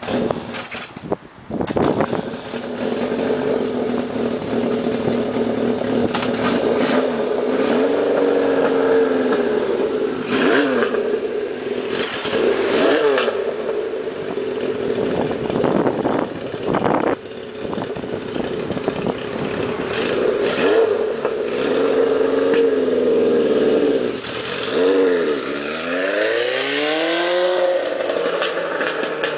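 1978 Honda CB750's inline-four engine, bored out to 836cc, running as the bike is ridden, its revs rising and falling several times with a deep drop and climb near the end.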